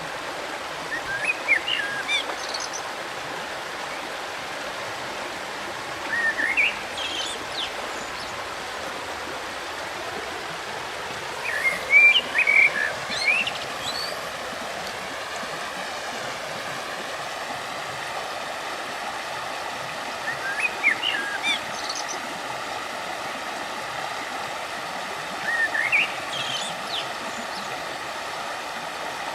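River water flowing steadily, with a small bird singing a short rising chirped phrase five times, every few seconds, over it.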